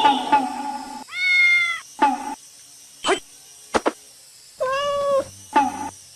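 A cat meowing: two drawn-out meows, one about a second in and another near five seconds, with shorter meows between them.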